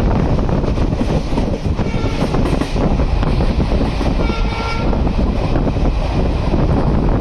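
Passenger train running along the track, a steady rumble with wind rushing over the microphone, and a brief faint tone about four seconds in.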